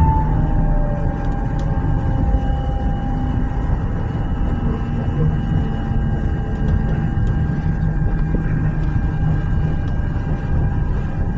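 Tram running: a steady low rumble of wheels and running gear, with the electric drive's whine falling in pitch during the first couple of seconds as it slows, then holding at a steady pitch.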